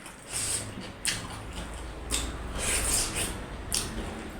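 Close-up eating sounds of someone chewing food with the mouth near the microphone: wet smacking and several sharp clicks of the lips and tongue.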